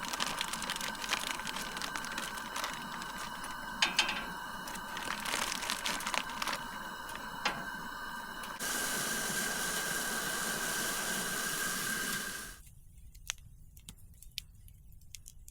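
Campfire crackling and hissing, with many sharp pops, for about twelve seconds; then it cuts off abruptly to a quieter background with a few scattered clicks.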